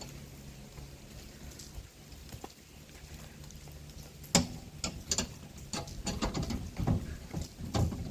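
A run of irregular sharp clicks and knocks, starting about halfway through, over a faint low hum.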